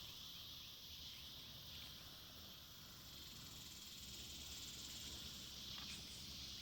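Faint outdoor ambience of a steady, high insect chorus from crickets or similar insects, over a low rumble of wind, with a couple of faint ticks near the end.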